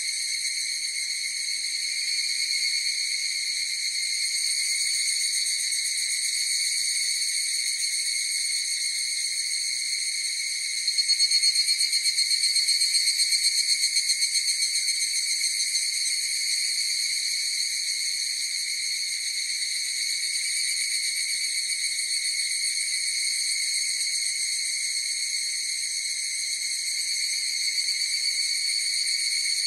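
A chorus of higurashi evening cicadas (Tanna japonensis) keeps up a steady, high ringing drone. From about 11 to 15 seconds in, one nearer call rises over it, pulsing rapidly, then fades back into the chorus.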